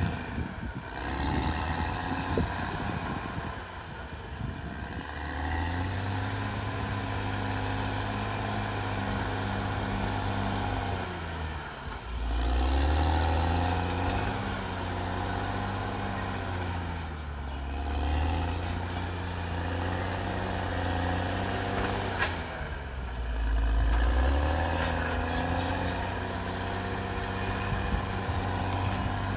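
Caterpillar D6R XL bulldozer's diesel engine running under load. Its pitch drops and climbs again several times as the engine lugs and recovers.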